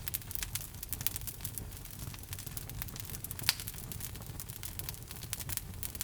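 Log fire in a fireplace crackling, with many small irregular snaps and one louder pop about three and a half seconds in, over a low steady rumble of the flames.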